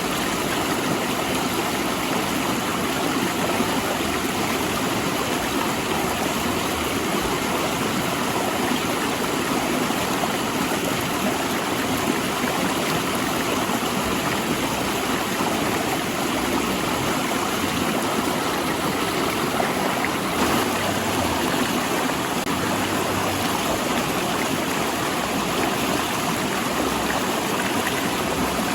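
River water rushing and splashing over and between large rocks: a steady, unbroken rush.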